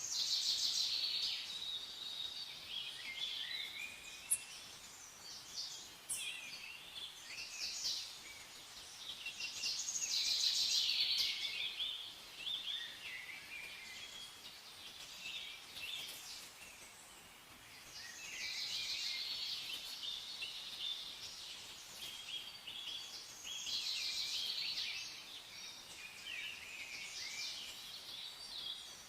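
Several songbirds chirping and trilling in overlapping bouts that swell and fade every few seconds, over a faint steady hiss.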